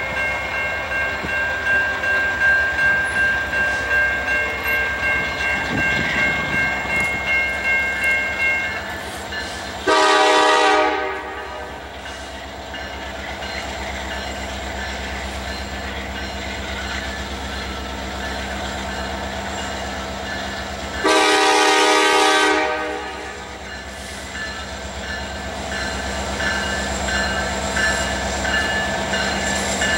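Freight train passing, its cars clicking rhythmically over the rail joints. A diesel locomotive air horn sounds two long blasts about eleven seconds apart, with the start of a third right at the end, over a steady low rumble.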